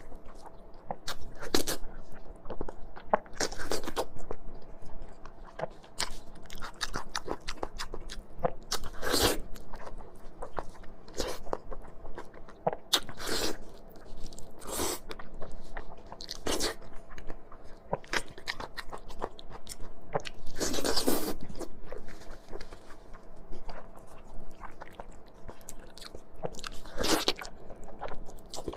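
A person biting and chewing crunchy food close to the microphone, with irregular crunches every second or two.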